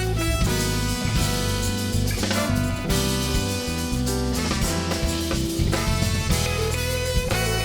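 A live band playing an instrumental passage: guitar over electric bass and drum kit, with held notes moving from pitch to pitch.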